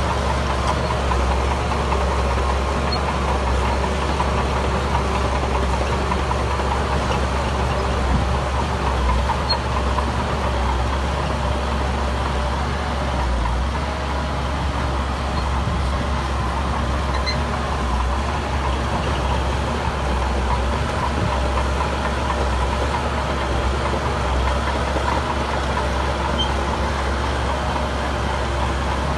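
Heavy diesel engine of earthmoving machinery running steadily at a constant low rumble, with no clear revving or impacts.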